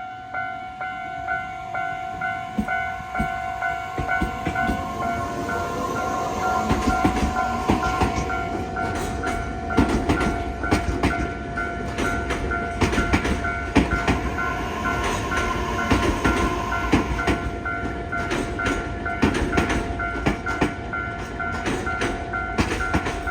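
A Tobu Urban Park Line electric train rolls slowly past into the depot, its wheels clicking over rail joints and points. Two steady high tones run throughout.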